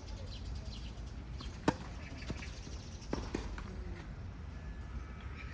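Tennis ball being hit with a racket and bouncing on the court: one sharp pop about a second and a half in, then a few lighter knocks over the next two seconds.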